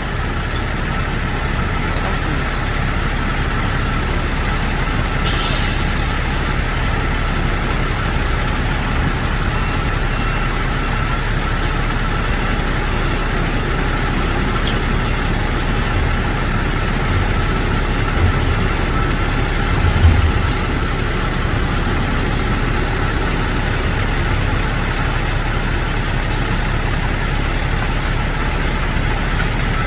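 Heavy diesel truck engine idling steadily, with a short burst of air hiss lasting about a second, about five seconds in, and a couple of low thumps later on.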